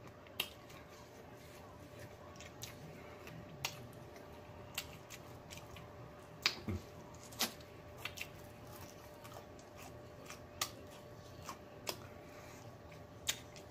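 Close-up chewing and mouth smacking on crispy fried chicken legs, with irregular sharp wet clicks about once a second, over a faint steady hum.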